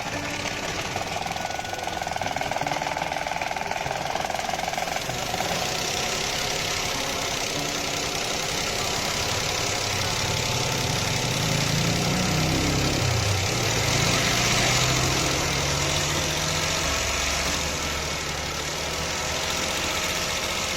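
Toyota engine running at idle with a misfire, its note shifting for a few seconds around the middle.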